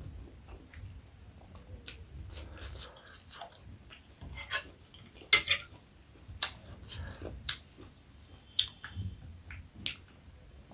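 Close-miked eating of buff momo dumplings: chewing with irregular wet mouth smacks and sharp clicks.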